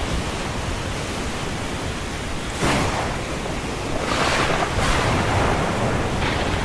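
Ocean surf: a steady rushing wash of waves, with waves breaking and surging louder about two and a half seconds in and again around four to five seconds in.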